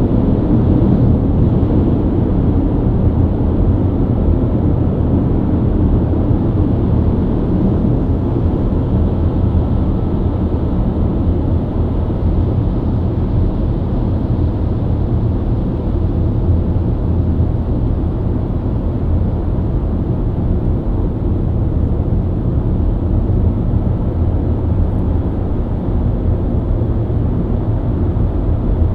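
BMW E90 323i's inline-six engine running at a steady highway cruise, with the drone of tyres and road noise; the pitch and level hold steady with no revving.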